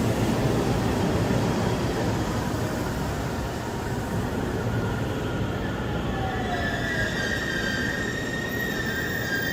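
Train running on the rails with a steady rumble; about two-thirds of the way through, the wheels begin to squeal with a high, drawn-out tone.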